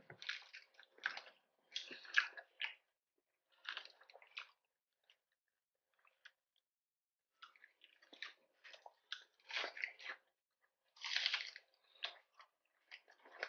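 Close-miked crunching and chewing of crisp lettuce leaves, in short crackly bursts with a pause of a couple of seconds midway.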